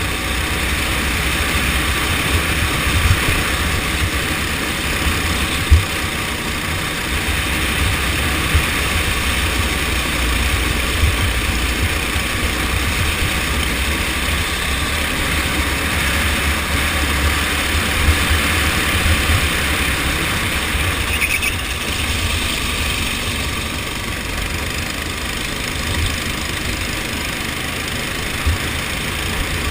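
Go-kart engine running during a race, its note rising and falling as it speeds up and slows, over a heavy low rumble with a few sharp knocks.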